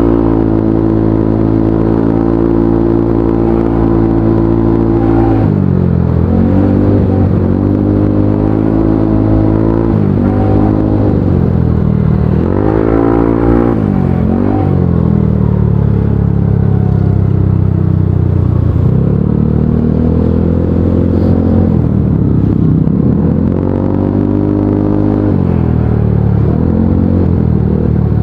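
Motorcycle engine heard from the rider's seat, running at a steady pitch at first, then dropping and climbing again several times as the throttle is closed and reopened in stop-and-go riding.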